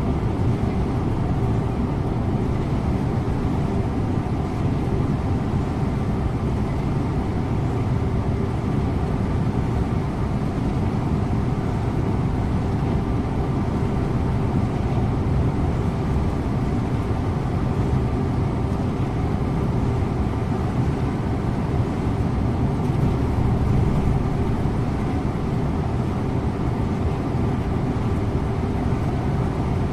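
A Scania InterLink bus being driven at a steady speed: engine drone with road and tyre rumble, holding an even pitch.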